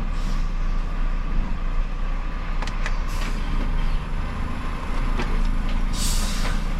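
Iveco S-Way truck driving: steady engine and road rumble, with short bursts of hiss about three seconds in and again near the end.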